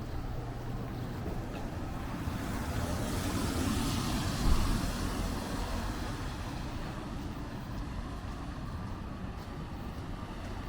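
A motor vehicle drives past on the road, its engine and tyre noise swelling to a peak about four seconds in and then fading away, over a steady street background.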